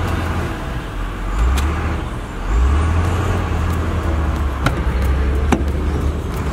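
Car on the move, heard as a steady low road and engine rumble with a few light clicks.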